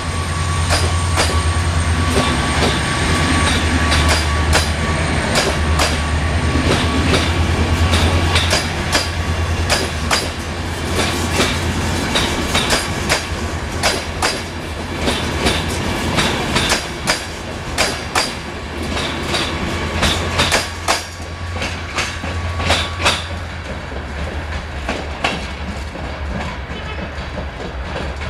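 Passenger coaches of a departing train rolling over rail joints and points, wheels clicking and clacking over a low steady rumble. The clacks come further apart and the sound fades as the train pulls away.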